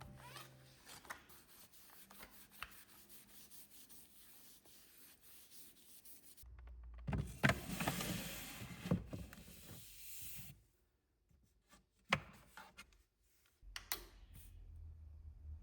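Objects being handled close up: soft rubbing and rustling with scattered small clicks, a louder stretch of rubbing about halfway through, then a pause broken by one sharp click.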